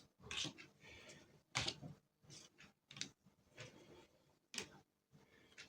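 Playing cards being dealt one by one onto a table: faint, irregular soft slaps and swishes, about one or two a second.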